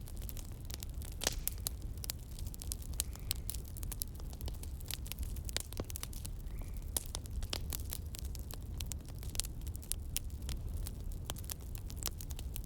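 Campfire crackling, with frequent sharp, irregular pops over a steady low rumble.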